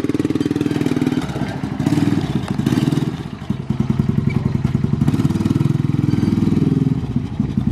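A vehicle engine running at low revs with a rapid, even firing pulse, easing off briefly twice and picking up again, as a vehicle gets ready to push a dead truck.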